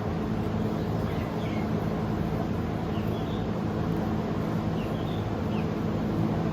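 Steady low mechanical hum, like a fan or motor running, with a few faint short high chirps scattered through it.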